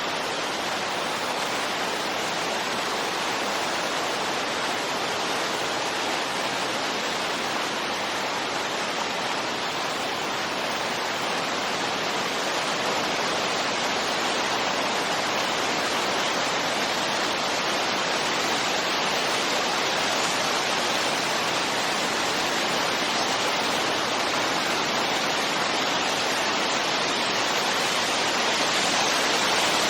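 Steady rushing wind, an even hiss, growing slightly louder toward the end.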